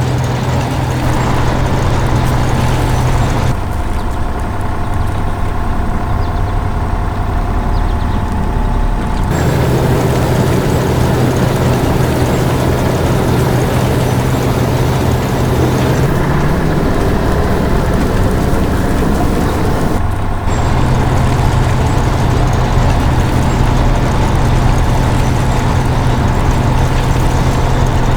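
Heavy construction-machine engine running steadily with a low hum, changing its tone abruptly a few times as the machine's work changes.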